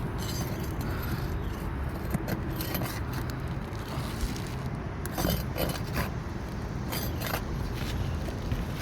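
Light metallic clicks and scrapes, irregular and a second or so apart, as roofing nails are worked out from under asphalt 3-tab shingles near the ridge cap. A steady low rumble runs underneath.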